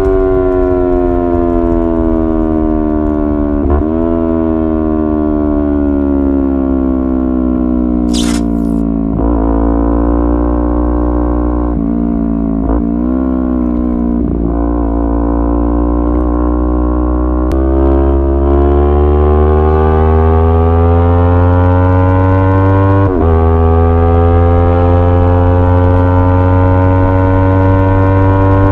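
Hero XPulse 200 4V's single-cylinder engine running while riding: its note falls slowly over the first several seconds, is broken briefly a few times, and climbs steadily again through the second half. A short hiss comes about eight seconds in.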